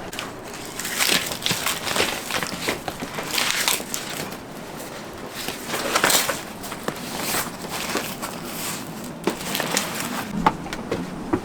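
Irregular rustling and crunching, like material being handled, with a sharper knock near the end.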